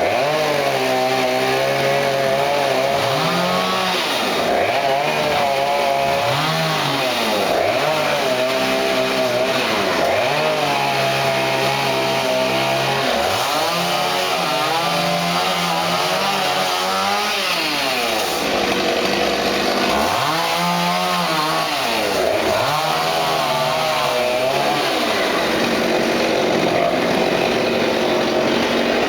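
Two-stroke chainsaw running and cutting, its engine pitch rising and falling every few seconds as it revs and bogs under load in the wood.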